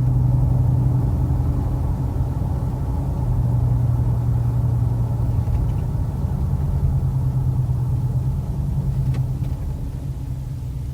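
Ford F-150's 5.0 V8 with an aftermarket dual exhaust running steadily at cruise, a low even hum that is pretty quiet at this speed.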